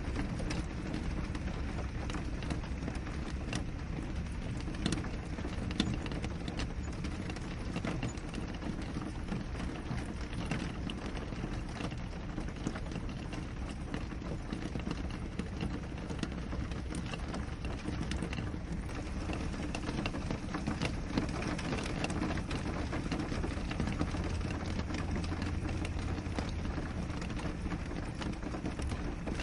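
Steady rain on a window pane: a continuous hiss of rainfall with many small drop ticks scattered through it.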